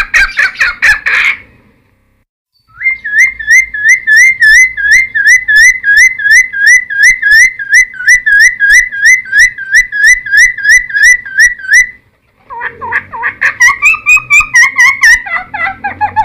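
Cucak timor singing in full song. A short burst of fast notes and a pause are followed by a long run of evenly repeated, hooked notes at about three a second; after a brief break comes a faster, more varied series near the end.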